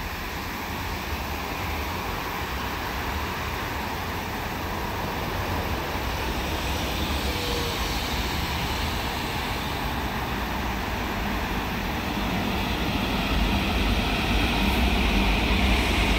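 Steady road traffic hum, joined by a Seoul Subway Line 4 electric train approaching on an elevated viaduct, its running noise growing louder over the last few seconds.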